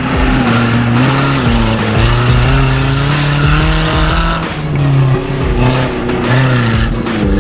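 Off-road 4x4 competition vehicle's engine revving under load, its pitch rising and falling, with music underneath.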